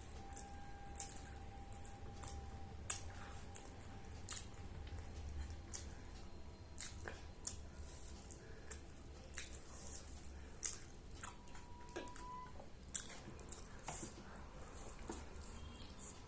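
Close eating sounds of someone chewing biryani: wet mouth smacks and sharp clicks, irregular, about one or two a second, over a low steady hum.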